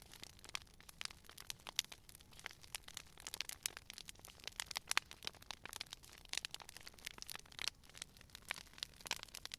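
Wood fire crackling: irregular sharp snaps and pops, several a second, some louder than others.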